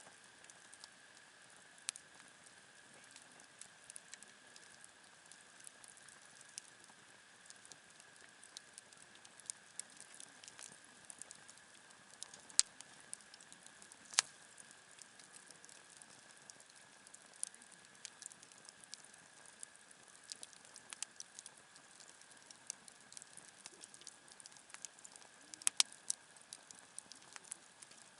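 Wood campfire crackling: scattered sharp pops and snaps at irregular intervals, a few louder ones about halfway through and near the end, over a faint steady high tone.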